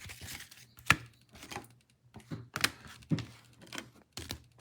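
Trading cards being handled and laid down on a table: a few sharp clicks and taps with soft sliding and rustling between them.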